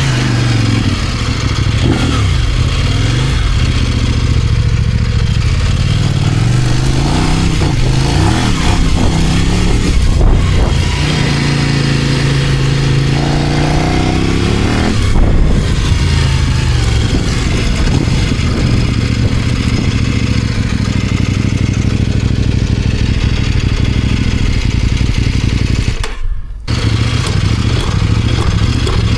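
Kove 800X Pro's parallel-twin engine running under light load on a new, still-being-run-in motorcycle, revs kept modest. Its pitch rises steadily as it pulls up through the revs about twelve to fifteen seconds in, with short breaks in the sound around ten and fifteen seconds, and it drops away briefly near the end before picking up again.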